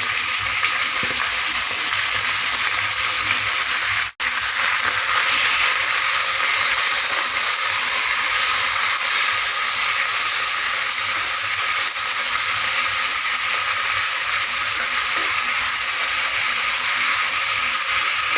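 Chicken pieces sizzling in hot groundnut oil with fried shallots as they are stirred through in the pan, a steady frying hiss. It breaks off for an instant about four seconds in.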